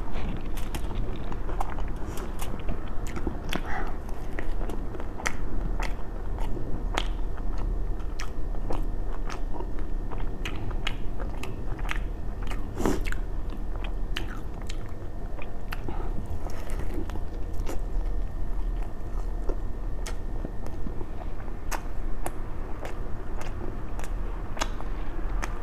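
A person eating: chewing and biting food, with many short sharp mouth clicks and smacks.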